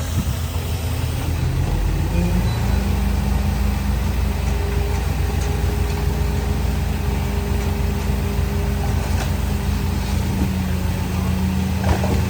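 Diesel engine of heavy earthmoving machinery running steadily, picking up a little about two seconds in, with a faint higher whine through the middle and a couple of short knocks near the end.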